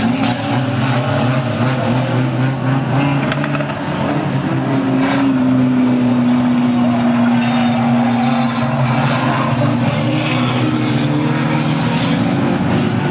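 Banger racing cars' engines running around an oval track, a steady mixed drone. One engine stands out for about four seconds in the middle with a held, slightly falling note.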